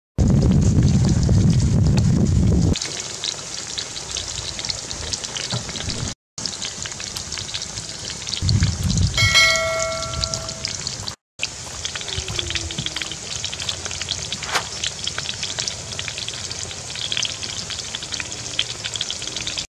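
Coated chicken wings deep-frying in hot oil in a wok, a steady dense crackle and sizzle of bubbling oil. A low rumble sits under the first few seconds, and a brief clear tone sounds about halfway through.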